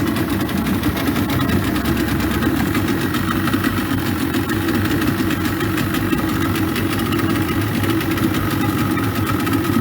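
Boat motor running steadily at an even speed, a constant low engine drone.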